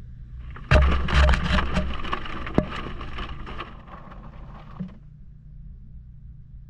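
Recorded from inside a running Maytag washing machine: the machine's steady low hum, broken by about four seconds of splashing water and rapid knocks against the camera, loudest at the start and stopping suddenly.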